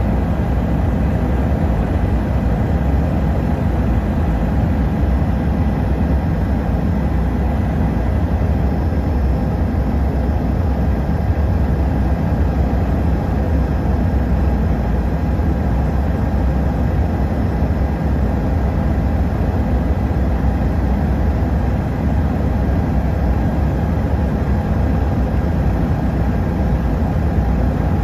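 Helicopter's engine and rotor noise, running steadily and loud throughout, with a faint steady whine over a deep rumble.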